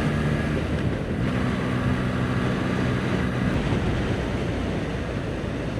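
Motorcycle engine running at a steady cruise, with wind rushing over the microphone. The engine note fades a little after about three and a half seconds.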